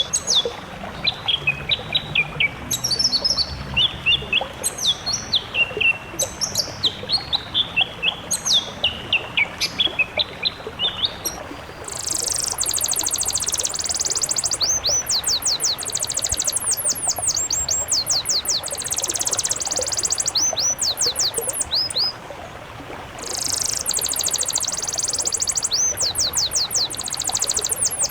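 Caged songbirds singing: repeated falling whistled phrases for the first twelve seconds or so, then a change to rapid, very high trills of fast rising notes, with a short pause near the end.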